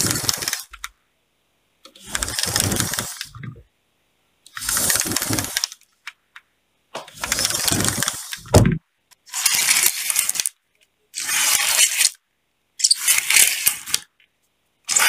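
Curtain, venetian blind or sliding door being slid back and forth: about seven sliding, rattling strokes, each a second or so long with short pauses between, and a sharper thud about halfway through.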